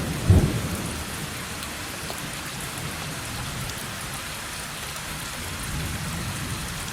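Steady heavy rain hissing on surfaces, with the tail of a thunder rumble dying away in the first second.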